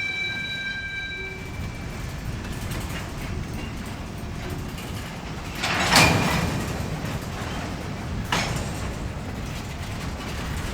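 Freight cars rolling slowly during switching, a steady low rumble, with a high wheel squeal that fades out in the first second and a half. Two loud bangs, the first about six seconds in and louder, the second about two seconds later, as the cars jostle against each other.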